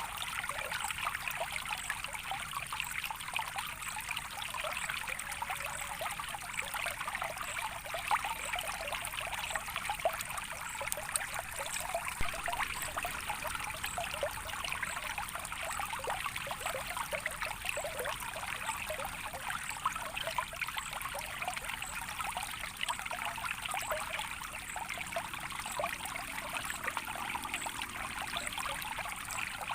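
Running water trickling and splashing steadily over stones, a dense even patter with no pauses.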